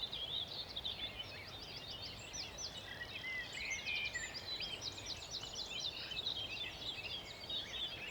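Several songbirds singing at once in a dawn chorus, with overlapping high chirps and quick runs of repeated notes.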